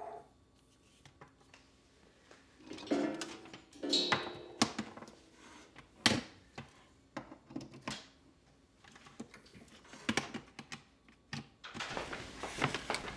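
Irregular small knocks, taps and rustles of household objects being handled and set down in a small room, with a few louder clatters in the middle.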